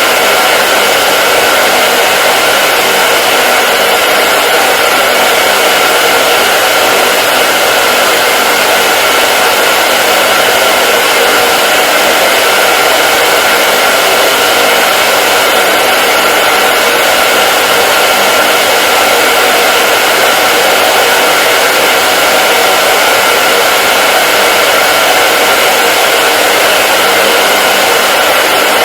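Hair dryer running steadily on one setting: a loud, even rush of blown air with a faint steady motor whine in it.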